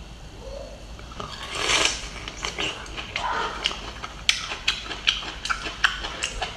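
Crunchy chewing of a bamboo shoot in chili sauce: a wet mouthful noise about a second and a half in, then many short, crisp crunches and clicks, more frequent in the second half.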